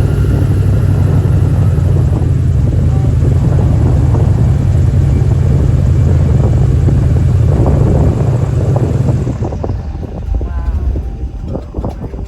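Airboat engine and propeller running steadily with a low, even engine note, then throttling back about nine and a half seconds in, the sound dropping sharply.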